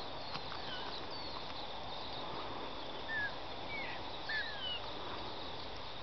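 A few faint, short, falling bird chirps, scattered over a steady outdoor background hiss.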